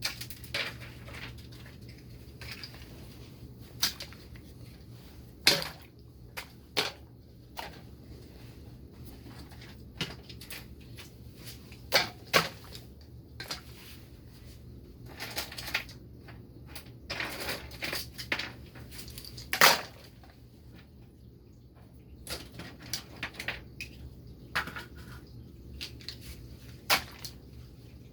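Small RC truck parts being handled and put into a wash basin: scattered knocks, clicks and clinks at irregular intervals, the loudest about 5, 12 and 20 seconds in, over a steady low hum.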